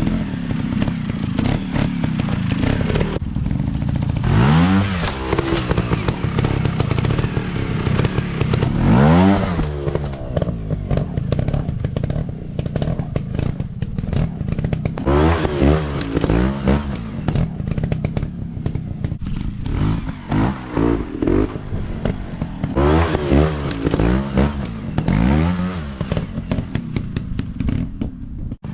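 Dirt bike engines running and revving, the pitch rising and falling sharply several times as the throttle is opened and shut, with scattered clattering knocks throughout.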